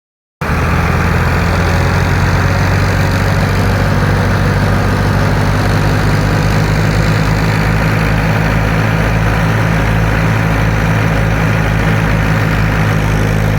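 Tractor's diesel engine running at a steady speed, one unchanging low pitch with no revving.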